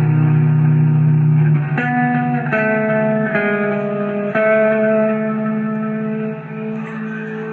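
Music: a guitar playing held chords, with a new chord or note struck four times and left to ring. It slowly fades toward the end.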